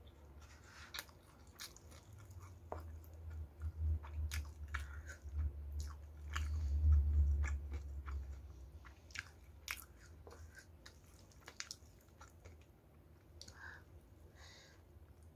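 Close-up eating sounds of crispy-battered fried chicken (ayam geprek) and rice being chewed: steady chewing with crisp crunches and sharp wet mouth clicks, loudest about midway.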